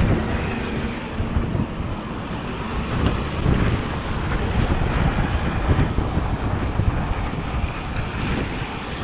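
Wind buffeting the microphone of a rider on a moving electric bike, a steady rushing noise that swells and fades unevenly.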